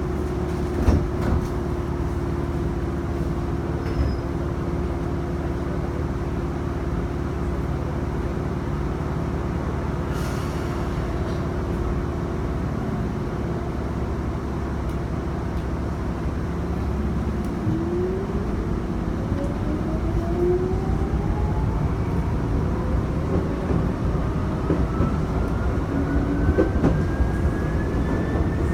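Chichibu Railway electric train heard from the cab, running with a steady hum. About two-thirds of the way through, its traction motors start a whine that rises steadily in pitch as the train accelerates.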